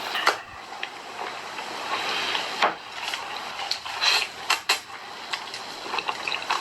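Mukbang eating sounds near a microphone: chewing and crunching, with sharp clicks of utensils against a dish. A click comes about a quarter second in, and several more cluster around four to five seconds.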